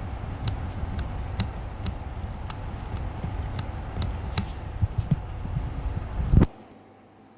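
Clicking and a steady low rumble from the home-built gear mechanism of an automaton whistling bird as it runs, the rough gears clicking at an uneven pace. About six and a half seconds in it ends with a loud thump and stops suddenly.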